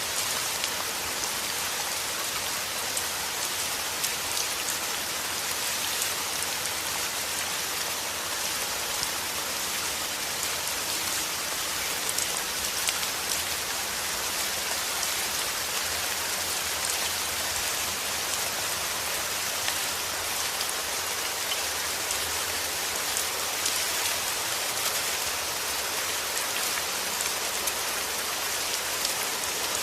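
Steady rain, with a continuous hiss and dense patter of drops falling on a surface.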